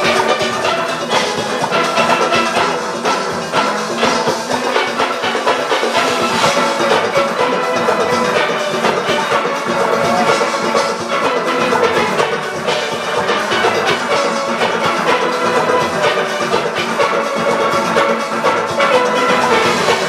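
Large steel orchestra playing at full tilt: many steelpans sounding a fast rolled melody and chords over a driving rhythm of drum kit and percussion.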